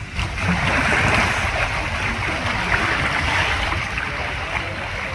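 Water splashing and sloshing as sea lions swim, strongest in the first three seconds or so.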